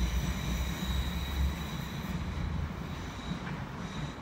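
Passenger train moving away round a curve, its wheels squealing in thin high tones that fade out about two seconds in, leaving a steady low rumble.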